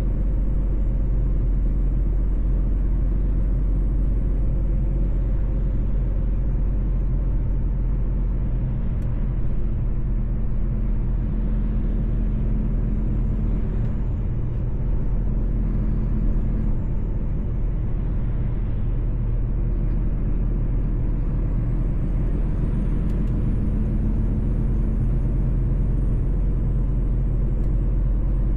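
Mercedes-Benz truck driving steadily at cruising speed: a constant low diesel engine and road rumble, with a faint high whine that slowly rises and falls.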